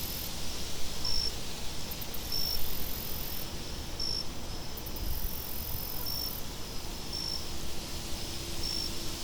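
Crickets chirping in short high chirps about once a second, with spells of higher trilling, over a steady low wind.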